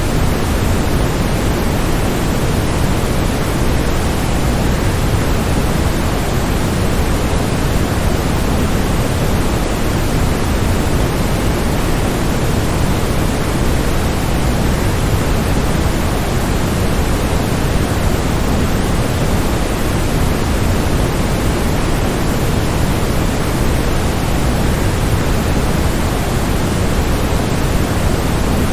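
Steady, unbroken rushing of falling water from a waterfall, even and unchanging, with most of its weight in the low end.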